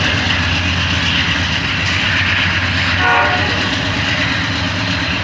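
Train passing close, with a steady heavy rumble and wheel-on-rail noise, and a short pitched sound about three seconds in.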